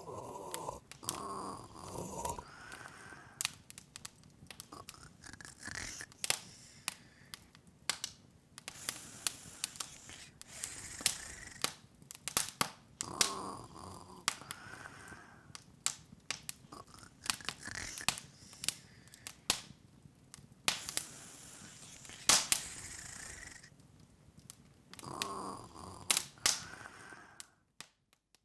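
Open wood fire crackling: irregular sharp pops and snaps over a soft hiss, cutting off just before the end.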